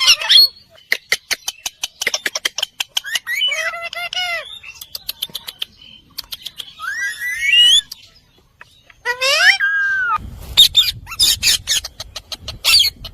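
Indian ringneck parrot calling: several separate squawks and whistles that sweep up and down in pitch. A run of rapid clicks comes in the first few seconds, and low rumbling handling noise with more clicks in the last few seconds.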